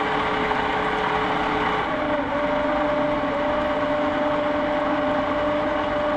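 Small boat motor running with a steady whine over a hiss; the whine steps up in pitch about two seconds in.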